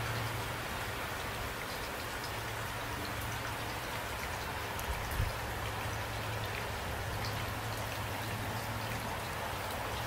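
Steady rain falling at night, an even hiss of drops on surfaces, with a brief low thump about five seconds in.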